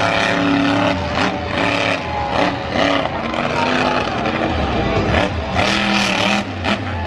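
Monster truck engine running hard and revving, its pitch rising and falling repeatedly.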